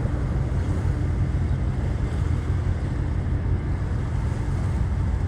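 Steady low rumble of a boat's engine under rushing water and wind buffeting the microphone, with a faint steady hum running through it.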